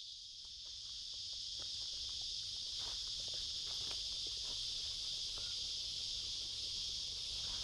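Steady, high-pitched drone of an insect chorus, with a few faint ticks scattered through it.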